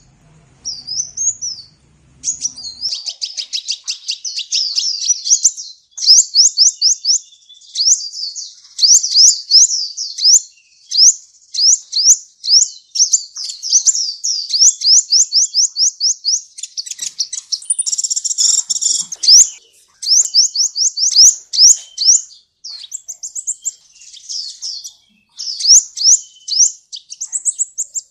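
Sunbird ('kolibri') singing a loud, rapid, high-pitched chatter: fast runs of short sweeping notes, several a second, in phrases separated by brief pauses, with a denser, scratchy burst a little past the middle.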